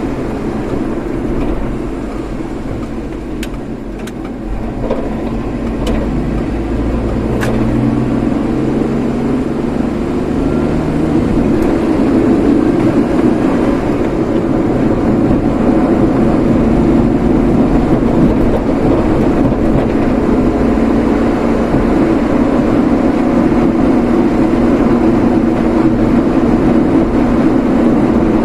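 Vehicle on the move: engine and road noise climbing in pitch and loudness over the first dozen seconds as it speeds up, then holding steady. A few faint clicks come in the first several seconds.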